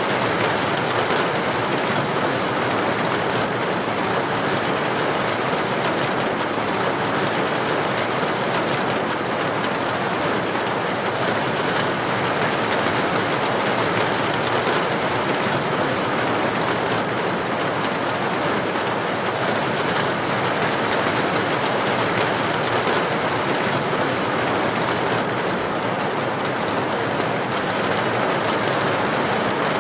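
Heavy rain pouring steadily onto a street, an even hiss with no break.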